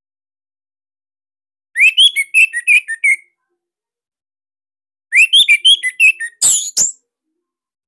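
Orange-headed thrush (anis merah) singing two short phrases of rapid, varied whistled notes, each about a second and a half long, with silence between. The second phrase ends in two loud, high sweeping notes.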